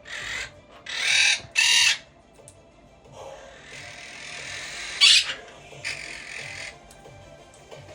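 Grey parrot calling: a string of short loud squawks and whistle-like calls, with the loudest sharp squawk about five seconds in.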